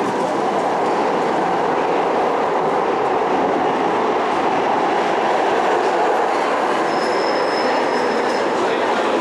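Rail vehicle running along the track with steady wheel-on-rail running noise. About seven seconds in, a thin high wheel squeal sets in.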